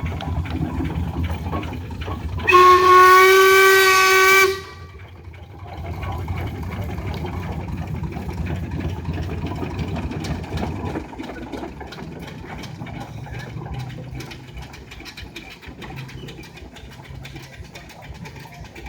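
Steam traction engine's whistle blown once, a loud steady pitched blast of about two seconds, over the low rumble of the engine running. The rumble drops noticeably about halfway through.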